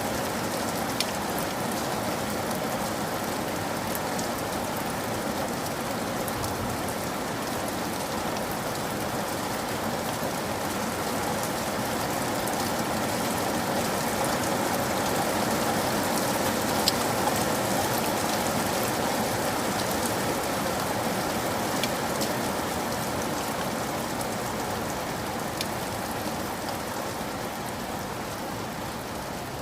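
Steady rain falling, a continuous patter with a few sharp drop taps now and then. It swells a little about halfway through and eases off toward the end.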